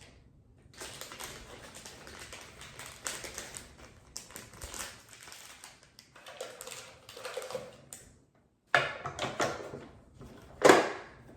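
Small plastic sewing-machine parts and accessories being handled and put away, with irregular rattling and clicking, then sharper clicks and a loud knock near the end.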